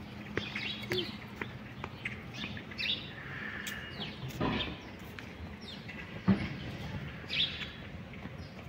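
Several birds chirping and calling in short notes, a few each second, some of them sweeping down in pitch.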